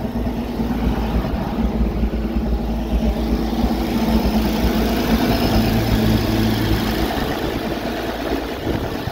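Oliver 770 tractor engine idling steadily, with a lower hum joining in about halfway through.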